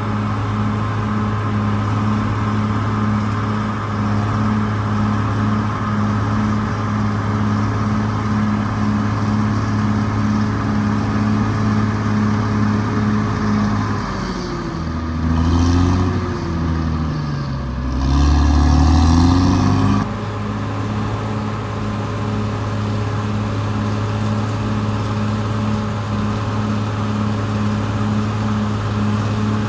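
Caterpillar D6R XL crawler bulldozer's diesel engine running steadily; about halfway through, the engine note drops and rises several times over a few seconds, then settles back to its steady pitch.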